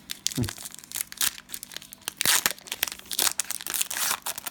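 Crinkling and tearing of a cellophane trading-card pack wrapper, mixed with quick clicks and rustles of cards being handled. The crinkling is loudest in bursts a little past halfway and again near the end.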